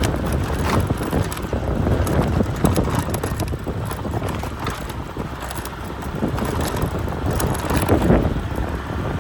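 Wind buffeting the microphone: a loud, uneven low rumble with scattered crackles.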